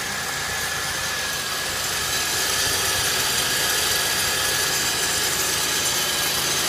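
2003 Chevrolet Impala's 3.4-litre V6 idling steadily, running smooth and quiet.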